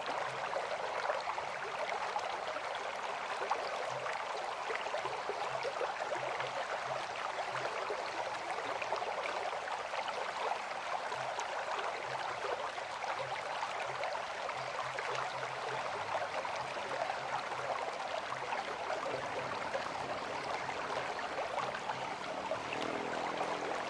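River water flowing with a steady rushing sound. A faint low hum comes in near the end.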